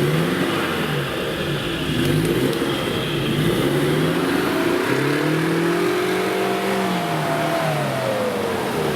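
Off-road 4x4's engine revving up and down: several short rises and dips, then a longer climb about four seconds in that holds and falls away near the end.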